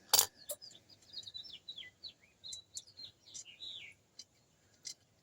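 A songbird singing a quick run of short chirps and whistles that ends about four seconds in. A sharp click comes just after the start, with a few faint clicks later.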